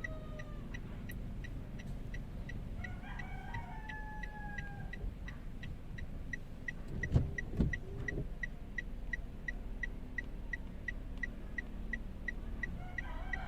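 A rooster crows about three seconds in over a low steady rumble and a regular high tick about three times a second. Two thumps come near the middle.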